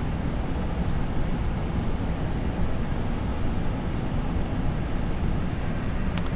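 Steady rushing noise of airflow and engines inside the cockpit of a Boeing 747-400 on final approach, with landing gear down and flaps set for landing. A single short click sounds near the end.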